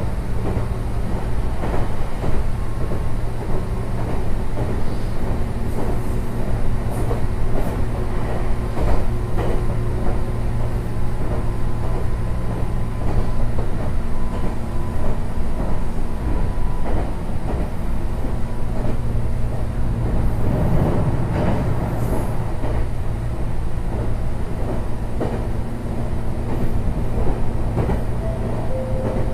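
Meitetsu 6800 series electric train running along the track, heard from inside the car: a steady rumble and hum with repeated clicks of the wheels over the rails.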